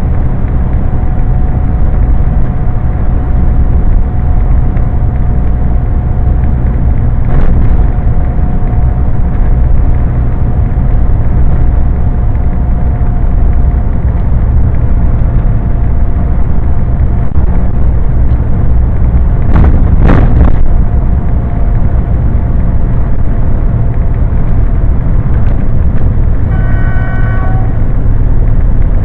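Scania truck's engine and road noise heard inside the cab: a loud, steady low rumble with a faint steady whine over it. There is a sharp knock about 20 seconds in and a short beep near the end.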